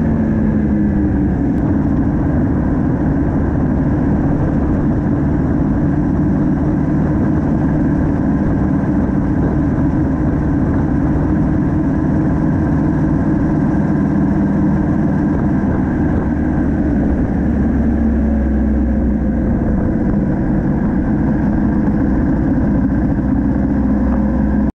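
Yamaha MT-07's 689 cc parallel-twin engine running steadily as the motorcycle is ridden, heard from on board, its pitch drifting a little with speed.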